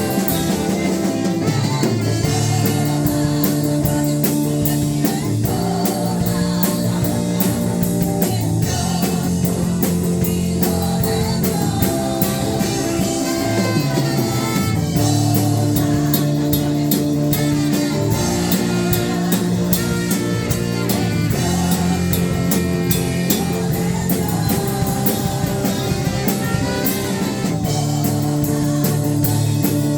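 Praise and worship band music with guitar and drum kit, steady throughout.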